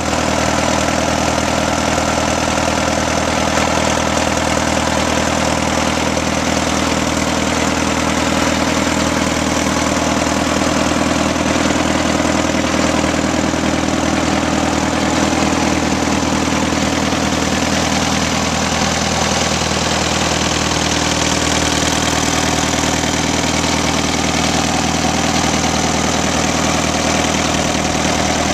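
1938 Case C tractor's four-cylinder engine idling steadily, its tone dropping slightly about two-thirds of the way through.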